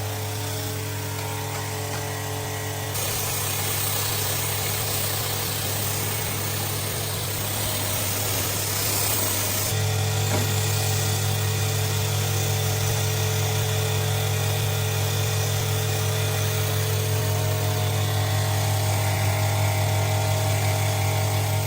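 A motor-driven machine running steadily with a constant low hum and a rougher, noisier layer above it. The sound changes about three seconds in and again about ten seconds in, growing slightly louder.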